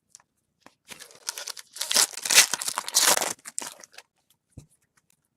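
Foil wrapper of a baseball card pack being torn open and crinkled, about three seconds of tearing and crumpling, followed by a soft thump.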